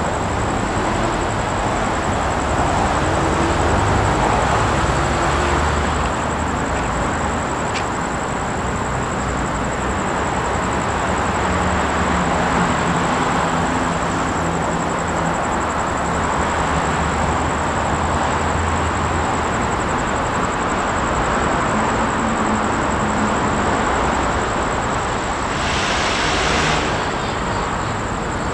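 Train running along the rails: a steady rolling rumble and rail noise, with a brief higher hiss near the end.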